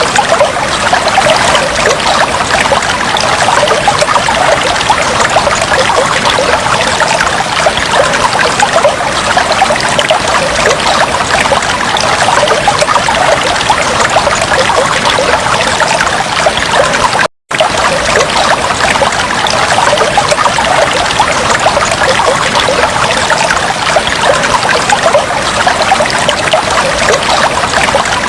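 Aquarium water trickling and bubbling steadily, a dense stream of tiny splashes and pops. The sound cuts out for an instant about two-thirds of the way through.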